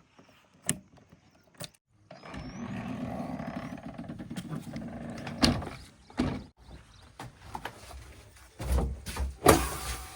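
Backhoe loader's diesel engine running steadily for a few seconds, with several sharp knocks, the loudest about five and nine and a half seconds in.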